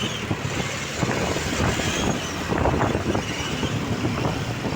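Truck traffic running, a low, rough rumble with wind buffeting the microphone.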